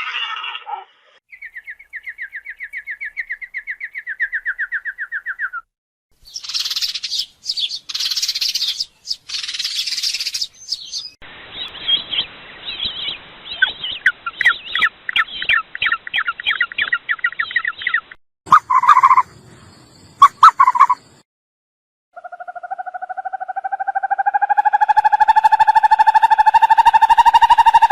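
A run of separate recorded animal calls, mostly birdsong: a fast trill, a spell of high chirping, a rapid trilling song, a few short calls, then one long pulsing call.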